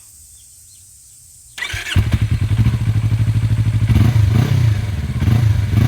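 Yamaha YZF R25's parallel-twin engine, breathing through an SC Project slip-on muffler, cranks on the starter about a second and a half in and catches. It settles into a steady idle with a few short throttle blips.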